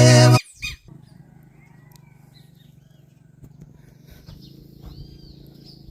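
A sung song cuts off suddenly about half a second in. It gives way to faint outdoor ambience: birds chirping now and then over a low steady hum.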